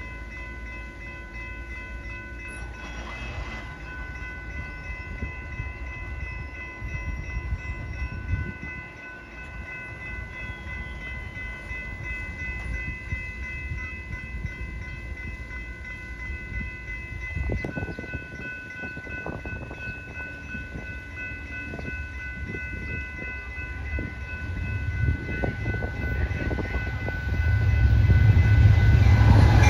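Amtrak diesel passenger train approaching, its low rumble building slowly and then rising sharply near the end as the lead locomotive reaches the crossing. A grade-crossing warning bell rings steadily over it.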